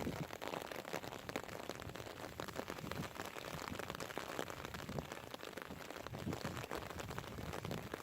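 Rain pattering steadily: a dense crackle of many small drop hits over a constant hiss.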